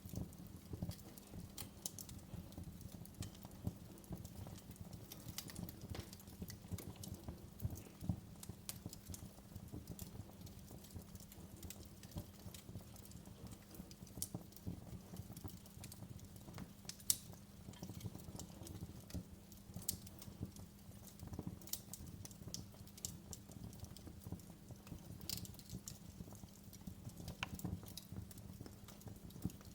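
Wood fire crackling in a fireplace: irregular sharp pops and snaps over a low steady rumble, with one louder pop a little past halfway.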